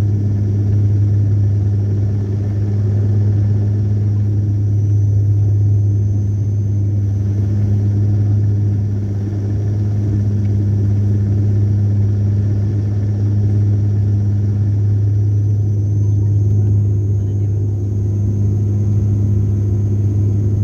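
Steady, loud low motor hum with a faint high whine that drifts slightly in pitch.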